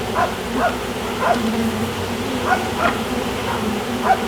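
Honey bees buzzing steadily around an open hive, with a series of about seven short, sharp calls at irregular intervals over the buzz.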